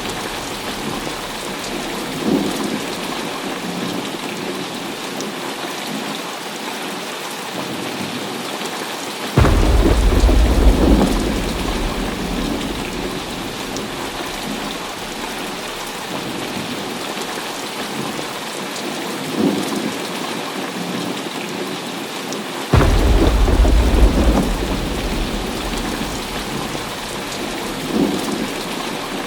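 Heavy rain falling steadily in a thunderstorm. Two sudden loud claps of thunder, about nine seconds in and about twenty-three seconds in, each rumble on for a couple of seconds. Fainter rumbles of thunder come in between.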